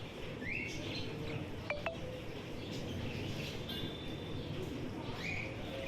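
Caged lovebirds chirping: short rising chirps about half a second in and again near the end, with a couple of sharp ticks in between, over a steady low background hum.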